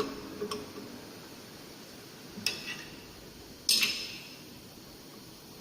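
Three short metallic clinks with brief ringing, the last and loudest nearly four seconds in: metal parts of a circular saw blade grinder being handled while the machine is not running.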